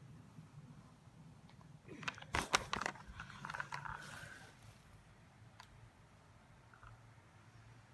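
A quick run of sharp clicks and clatter about two seconds in, then a couple of seconds of scraping and rustling, and one more click a little later, from handling and opening a box.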